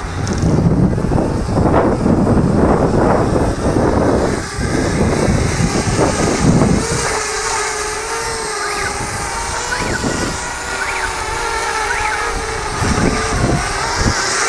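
Wind buffeting the microphone, then from about halfway a steady whine of several stacked tones: a quadcopter's electric rotors, here a Parrot Bebop drone.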